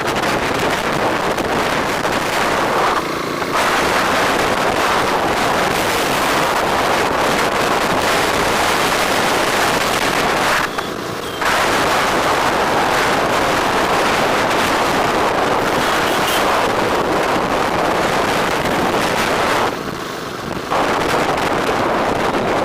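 Steady rush of wind over the microphone of a moving bike, mixed with road noise. It eases for a moment three times: briefly about three seconds in, then for about a second each near the middle and near the end.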